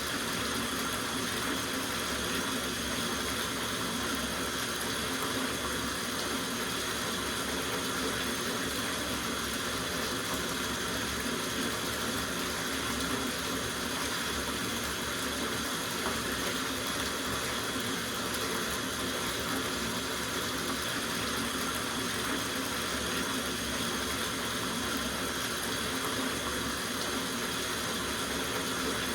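Water running steadily from a faucet into a soaking bathtub: an even, unbroken rush.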